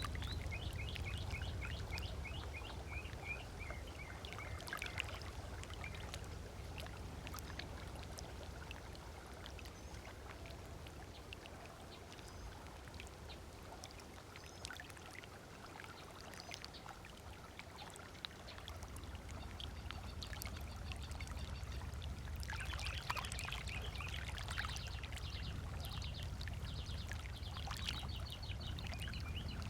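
Small waves lapping and trickling at the water's edge, with a bird calling in quick runs of repeated high chirps at the start and again from about two-thirds of the way in. A low steady rumble lies underneath.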